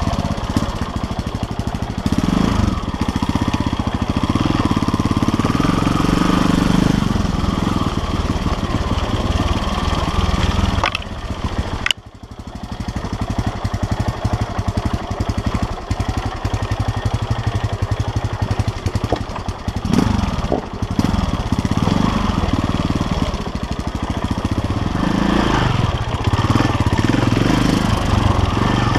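KTM LC4 350 single-cylinder four-stroke enduro engine running under a riding load, revving up and down with the throttle. About twelve seconds in the throttle is shut and the engine drops off briefly before pulling again.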